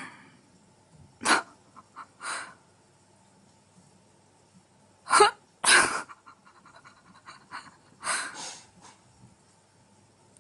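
Cat hissing in short, sharp bursts, about five of them with quiet gaps between. The two loudest come about five and six seconds in.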